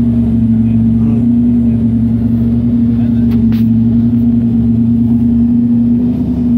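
Rally car engine idling steadily, a constant low-pitched drone that holds the same pitch throughout.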